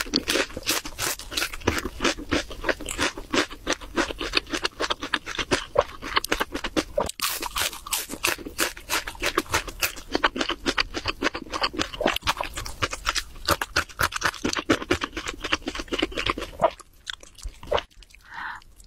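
Close-miked crunching and chewing of crispy Korean fried chicken: many rapid crisp crunches, one after another. They die away about two seconds before the end.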